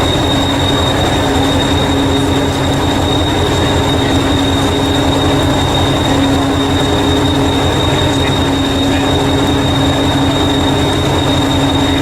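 Narrow-gauge train running steadily: a loud, even low rumble with a constant high-pitched whine over it.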